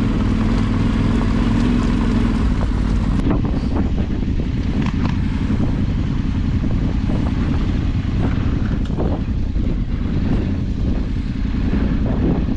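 Off-road motorcycle engine running under load, its note dropping to a lower, choppier beat about three seconds in, with a few faint knocks over it.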